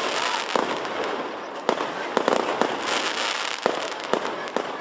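Aerial fireworks shells bursting in an irregular string of sharp bangs, about ten in under five seconds, over a continuous rushing background.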